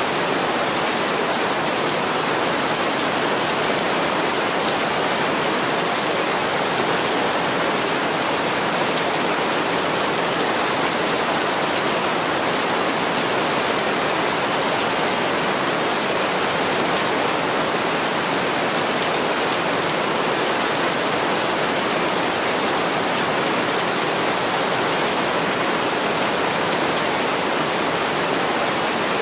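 Heavy rain pouring steadily on a window pane: a dense, even hiss with no let-up.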